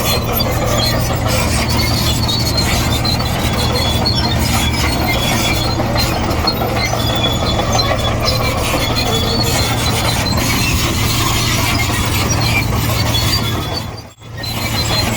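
Komatsu D58E crawler bulldozer working: steady diesel engine drone with squealing and clanking from its steel tracks. The sound drops out briefly about fourteen seconds in, then picks up again.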